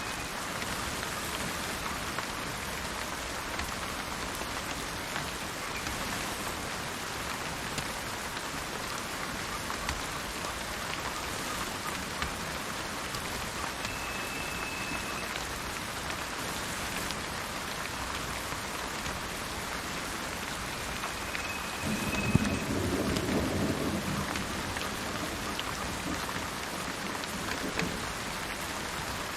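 Steady rain falling, with a single thunderclap about two-thirds of the way through: a sharp crack and a low rumble that dies away over a couple of seconds. A bird gives a short high note three times.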